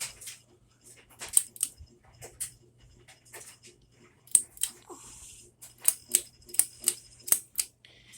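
Aloha Breeze hugger ceiling fan running on high with a steady low hum and irregular sharp metallic ticks and rattles. These come from its slight wobble, a vibration noise that the owner puts down to the missing light-kit globe.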